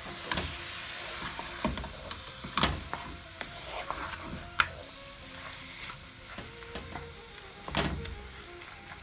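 Chicken pieces, tomato and green chillies sizzling in coconut oil in a pot, frying dry with no water added, while a wooden spatula stirs them. The spatula scrapes and knocks against the pot now and then, loudest a little before the middle.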